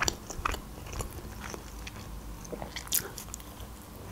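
Close-miked chewing of a slice of homemade pizza: scattered small mouth clicks, with a louder bite into the slice near the end.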